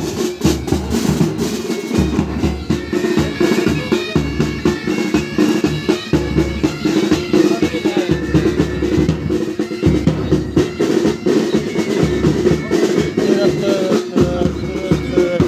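Military pipe band playing: bagpipes holding a steady drone and melody over rapid side-drum rolls and bass-drum beats.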